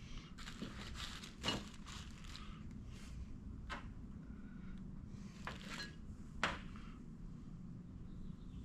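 Small carburetor parts and gaskets being handled on a workbench: scattered light clicks and knocks, the sharpest about a second and a half and six and a half seconds in, with brief rustling over a steady low hum.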